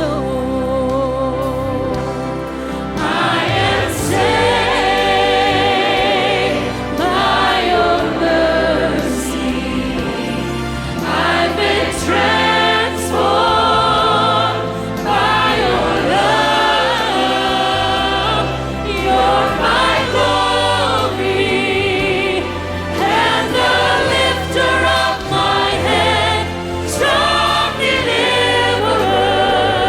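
Church praise team singing a worship song with instrumental accompaniment and steady bass notes.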